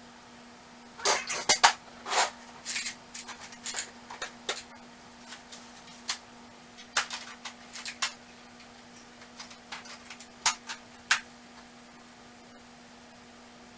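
Metal hand tools clinking and clattering as they are handled and sorted in a toolbox: irregular sharp clanks, the loudest in a quick cluster about a second in, then scattered lighter clicks.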